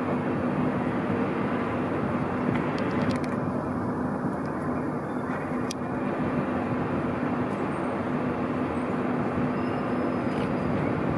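Steady rumble of trains running at a station, with a constant low hum throughout and a few faint clicks.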